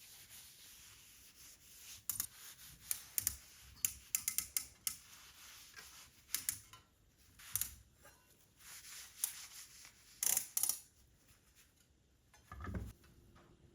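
Small handling noises: crisp clicks and rustles at irregular intervals, with a dull thump near the end.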